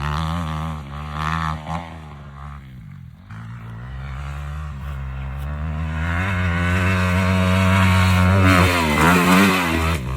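Small off-road engine running, lower and uneven at first, then revving up and holding higher revs from about six seconds in.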